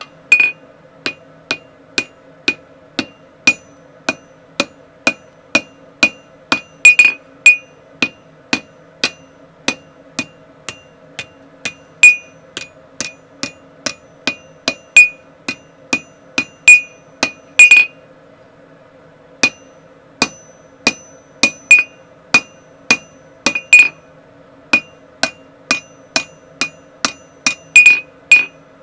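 Hand hammer striking hot 1060 tool steel on an anvil in a steady rhythm of about two blows a second, each blow ringing. There is a short pause about two-thirds of the way through, and a steady low hum runs underneath.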